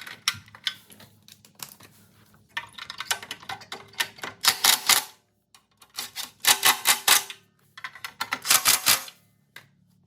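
Ratchet wrench clicking in several quick bursts as bolts are run in and tightened while the mini bike engine's cover is refitted.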